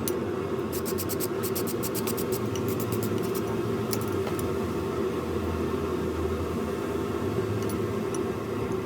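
Blacksmith's forge running with a steady rushing noise, with a scatter of light metallic ticks in the first few seconds.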